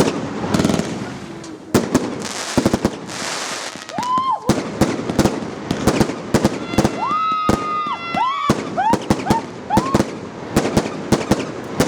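Firework cake batteries of 20–40 mm calibre firing a rapid string of sharp shots and bangs. Between about 4 and 10 seconds in, several whistling shells go up, their whistles rising, holding and then falling.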